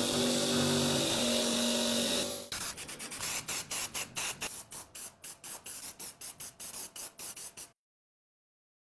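A small motor runs steadily with a hum for about two and a half seconds, then gives way to a quick series of short hissing bursts, about four a second, which stop abruptly near the end into dead silence.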